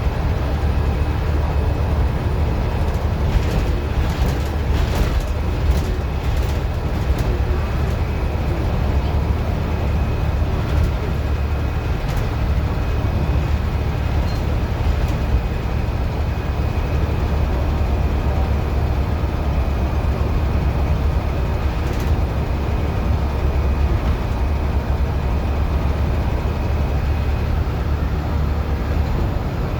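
Scania N94UD OmniDecka double-decker bus's diesel engine running hard at a steady, deep drone. A few clicks and rattles come in the first several seconds, and one more about two thirds of the way through.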